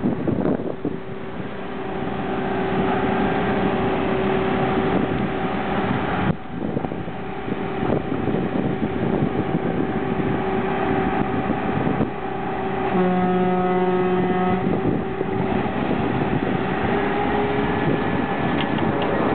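MS9J slurry seal machine working: a steady engine drone with a steady mechanical whine over it. About two-thirds of the way through, a vehicle horn sounds once, for about a second and a half.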